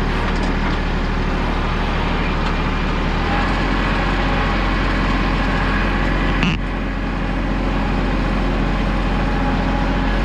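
Heavy machine's engine running steadily at a loud, even level; its low note shifts slightly about three seconds in, and a single knock sounds about six and a half seconds in.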